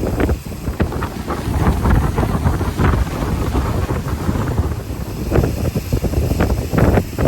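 Wind buffeting the microphone in irregular gusts, a loud low rumble, as from a moving river boat.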